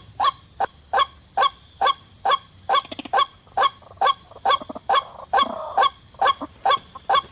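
A bird giving loud honking calls over and over, evenly spaced at about two a second, each call short and dropping slightly in pitch, over a steady high hiss.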